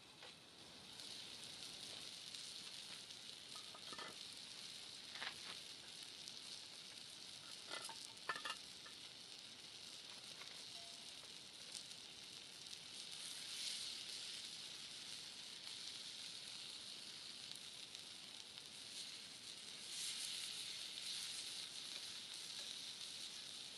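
Chicken frying over a campfire: a steady sizzle that starts about half a second in and swells again near the end, with a few brief clinks and clicks around four to eight seconds in.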